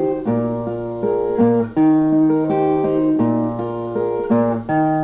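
Brazilian viola playing a short instrumental chord phrase between sung verses, plucked chords changing in a repeating pattern.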